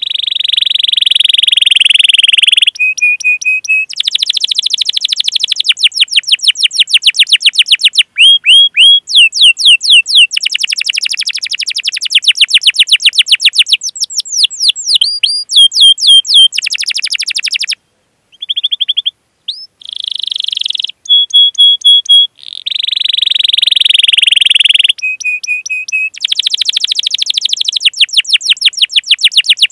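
Domestic canary singing a long, loud song. It changes phrase every second or two: fast runs of repeated sweeping chirps, rapid rolls and short steady whistled notes, with a brief pause a little past halfway.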